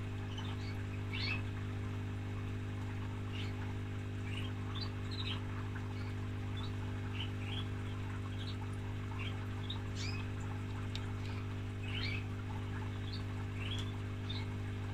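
Small birds chirping in short, irregular calls over a steady low hum.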